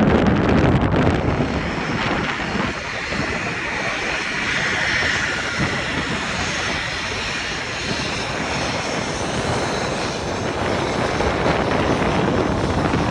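Boeing 737 jet engines roaring as the airliner passes, a steady roar with a high whine that swells in the middle.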